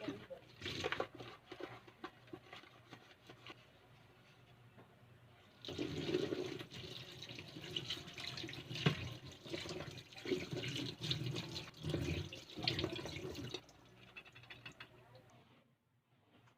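Water running in a small room, starting abruptly and continuing unevenly for about eight seconds with scattered knocks, after a few seconds of faint handling sounds.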